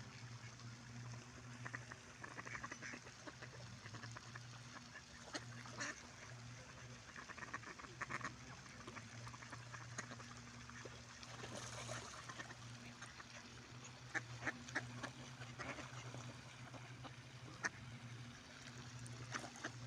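A group of wild ducks quacking as they feed, with short calls coming in scattered clusters. A steady low hum runs underneath.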